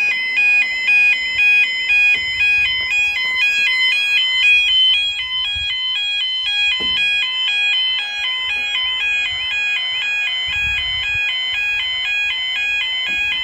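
Level crossing Yodalarm warning alarms sounding a steady two-tone warble, the pitch switching back and forth several times a second: the crossing's warning sequence, running while the barriers close to road traffic.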